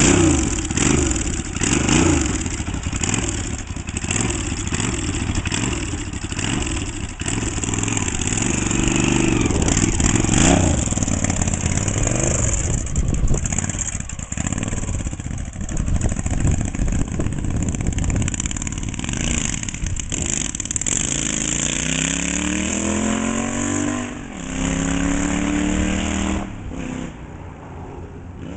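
Rephased Yamaha XS650 air-cooled parallel-twin motorcycle engine, cold after sitting a few days, firing up on the kick-start and blipped in uneven revs as it warms. Near the end the bike pulls away hard, its pitch climbing, dropping at a gear change and climbing again before it falls away.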